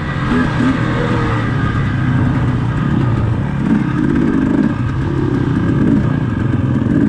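Dirt bike engine running steadily under throttle while riding a trail, its note wavering a little.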